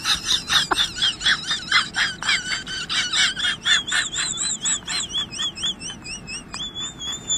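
Wild birds calling: a fast run of high chirps, with a warbling whistle that rises and falls a few times a second and holds steadier near the end.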